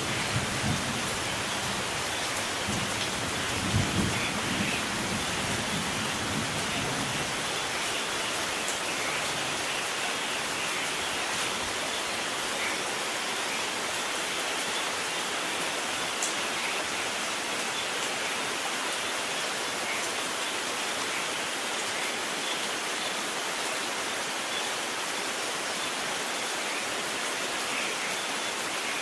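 Steady heavy rain falling, with low thunder rumbling during the first several seconds, loudest about four seconds in, then fading out, leaving only the rain.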